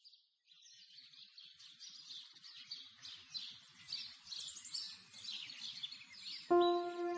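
Birds chirping, many short overlapping calls growing gradually louder. Music with held notes comes in near the end.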